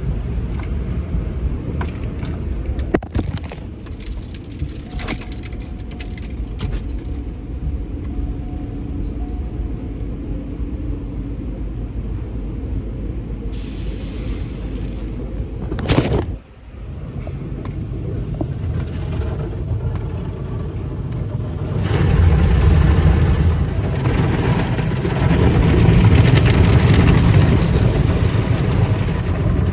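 Car-wash tunnel machinery heard from inside a car on the conveyor: a steady low rumble with a few knocks and one sharp knock a little past halfway. About two-thirds of the way through, the wash equipment gets louder, a fuller rushing and rumbling noise that carries on.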